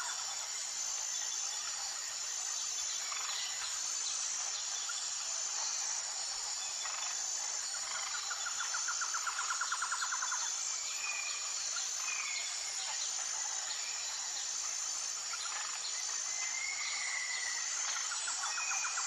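A steady, high-pitched insect chorus that pulses evenly, with songbirds calling over it. There are short whistled notes several times, and a rapid trill about halfway through.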